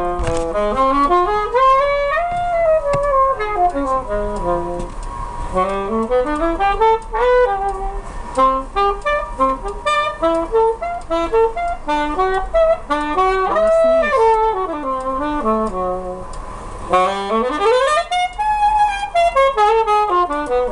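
Saxophone playing a jazz melody, weaving up and down in phrases, with a fast rising run near the end. A steady low rumble from the moving tram and a thin steady tone run beneath it.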